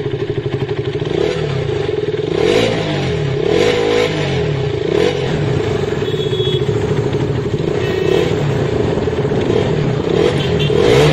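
Husqvarna Vitpilen 250's single-cylinder engine heard from on board while riding at low speed, its revs rising and falling a few times with the throttle.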